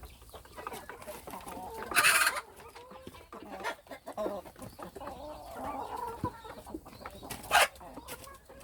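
Hens clucking, with two short, loud noisy bursts: one about two seconds in and one near the end.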